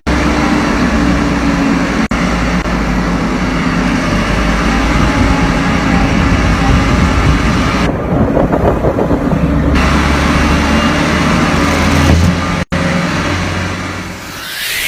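Truck engine running under way, heard from inside the cab: a steady low engine drone mixed with road and cab noise. The sound breaks off briefly twice, about two seconds in and near the end.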